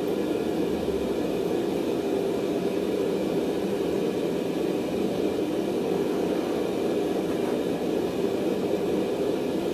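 A forge running: a steady rushing noise that does not change, with no hammer blows.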